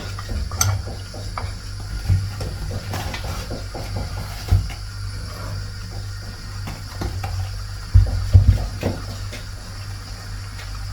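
A spoon stirring and knocking against a pot of chicken stew, with scattered short knocks and a cluster of louder ones near the end, over a steady low hum.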